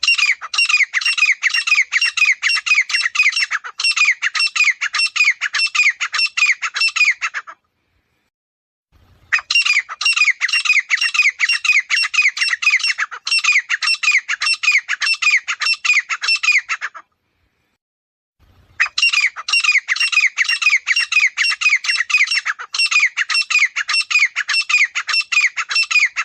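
Grey francolin calling: three long bouts of loud, shrill, fast-repeated notes, each note sweeping downward, with short silent pauses between the bouts.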